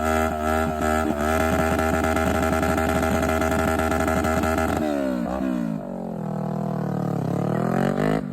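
A high-powered car's engine revving hard. It pulses briefly, then holds a steady high note. About five seconds in the revs fall away, and they climb again near the end.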